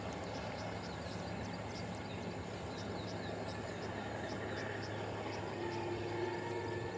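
Steady hum of a diesel train's engine and running gear, with small high chirps repeating several times a second over it. A steadier, higher drone joins about five and a half seconds in.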